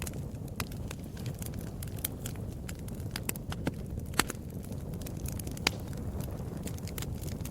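Fire crackling: irregular sharp pops and snaps over a steady low rush of flames, with a louder pop about four seconds in and another near six seconds.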